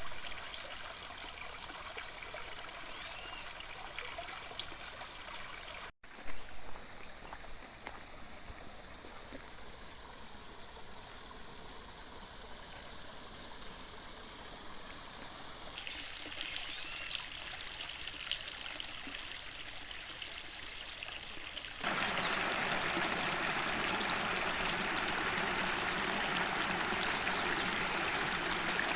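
Clear mountain stream flowing and trickling over stones, in several clips joined by sudden cuts; after a cut near the end the water is louder.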